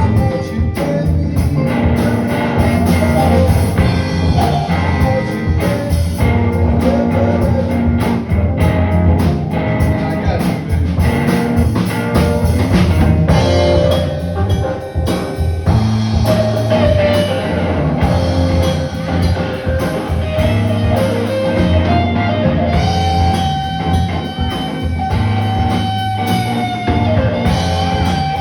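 Live rock band playing an instrumental passage on drum kit and electric guitar, with a lead line of held, bending notes over a steady beat.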